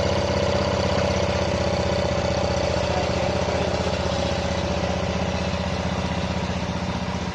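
Old tractor engine idling steadily with an even firing beat, running on its own after being freed from seized. It eases a little quieter toward the end.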